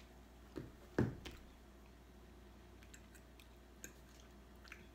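Quiet chewing of a mouthful of pasta, with a few soft mouth clicks, and a dull thump about a second in.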